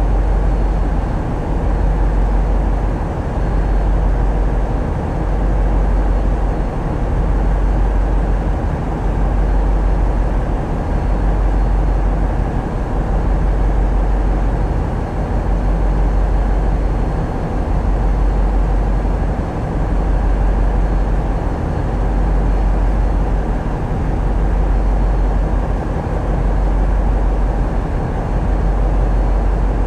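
Tugboat's diesel engines running steadily: a deep drone that swells and eases about every two seconds.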